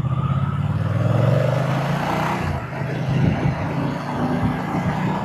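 Moto Guzzi V-twin motorcycle engine and exhaust running under throttle, then easing off about two and a half seconds in.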